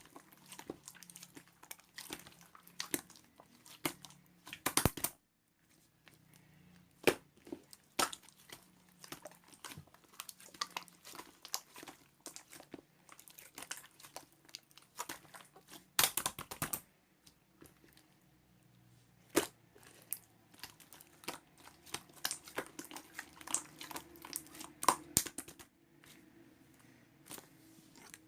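Clear slime being squished and stretched by hand, making irregular sticky crackles and small pops, with a few louder bursts of crackling.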